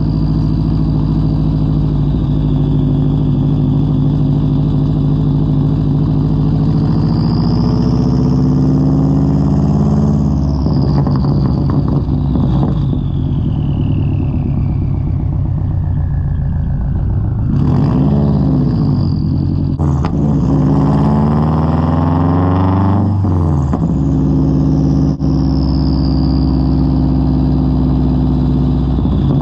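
A 2003 Subaru WRX's turbocharged flat-four running through a Tomei straight-pipe exhaust while driving. The revs climb and fall back several times through the gears, with a high whine rising and falling above the engine note.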